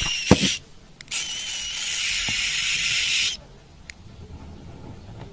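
Long breathy hissing in separate bursts, one running into the start, one of about two seconds in the middle and another starting at the very end. A sharp click comes just after the first burst.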